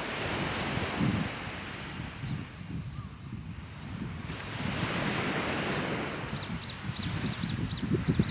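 Sea waves washing in, with wind gusting on the microphone and a swell of surf from about halfway through. Near the end, a quick series of short, high chirps sounds about three times a second.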